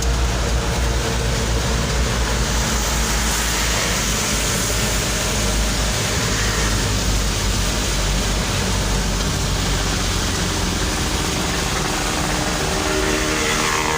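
Steady driving noise of a road vehicle on the move: a low engine rumble under an even hiss of road and wind noise.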